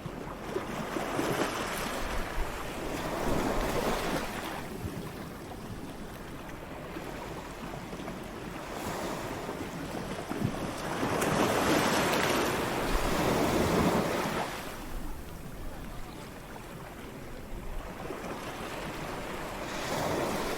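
Ocean waves breaking on a shore: a rushing wash of surf that swells and fades every few seconds, the longest and loudest surge a little past the middle.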